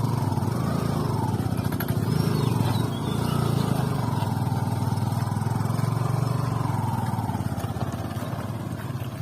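Motorcycle engine running while riding, a steady drone whose note rises and falls a little.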